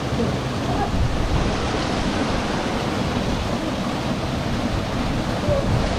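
Steady rush of a waterfall pouring into a pool, with a low rumble of wind on the microphone.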